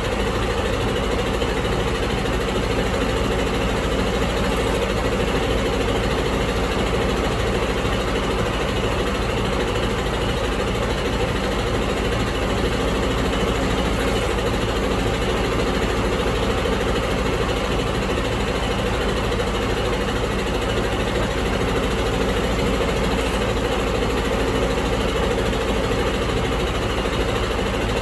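Detroit DD15 inline-six diesel engine idling steadily.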